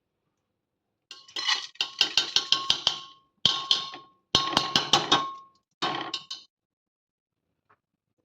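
A metal utensil rapidly clinking against a ringing steel bowl or pot, about four or five strikes a second, in four short runs with brief pauses between them.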